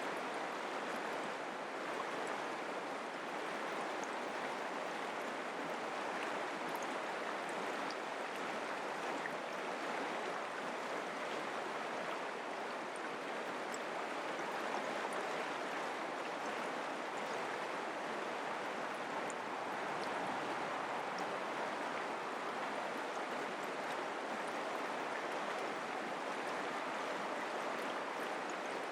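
Mountain creek flowing: a steady, even rush of water with faint high ticks scattered through it.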